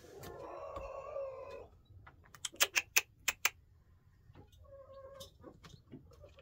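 Chickens clucking: one drawn-out call near the start, then a quick run of about five sharp taps, and a shorter cluck about five seconds in.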